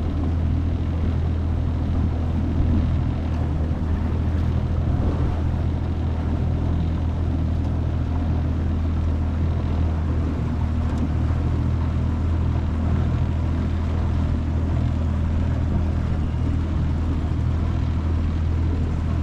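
25 hp Mercury four-stroke outboard motor running steadily, a constant low drone at even pitch with water and wind noise over it.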